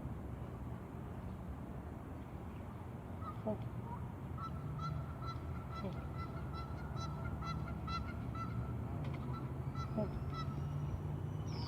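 Geese honking in a rapid series of repeated calls, starting about four seconds in and running for several seconds, over a steady low rumble.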